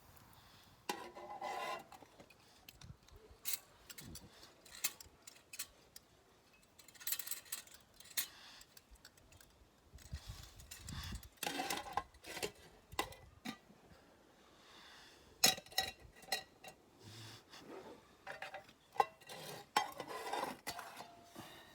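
Scattered clinks and knocks of camp cookware and utensils being handled, some strikes ringing briefly, with rustling in between.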